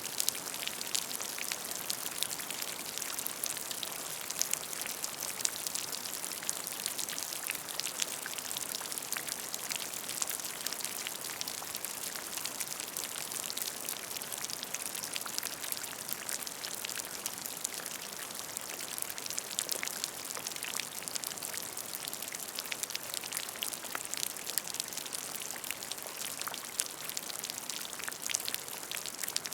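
Rain falling onto a puddle of water: a steady patter of many small drop splashes, evenly dense throughout.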